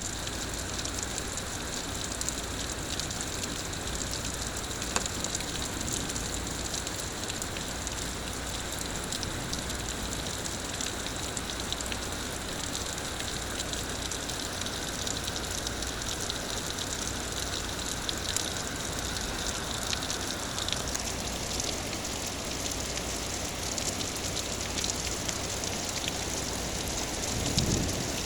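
Heavy rain from a severe thunderstorm falling steadily: an even hiss full of small drop ticks. A brief low rumble comes near the end.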